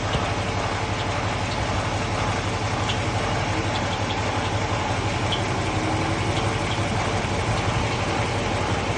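2015 Dodge Charger engine idling steadily, with a few brief, high chirps at uneven intervals.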